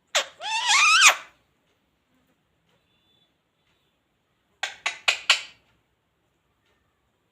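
Indian ringneck parrot calling: one call about a second long that climbs in pitch, then after a pause four short, quick, sharp chirps.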